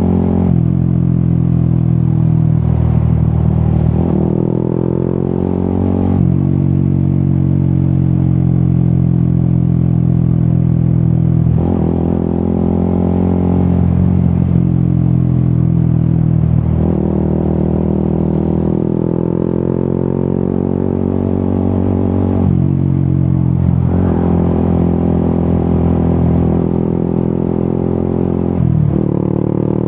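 Yamaha XSR 155's single-cylinder engine through an Akrapovic exhaust, under way. The engine note climbs and falls with the throttle, and its pitch changes sharply every few seconds at the gear changes.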